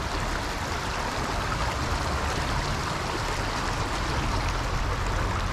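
Water of a small stream running steadily over rocks, an even rush without a break.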